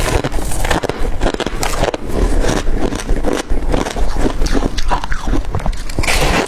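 Hard crushed ice being bitten and crunched close to the microphone: a dense, unbroken run of crackling crunches, one bite after another.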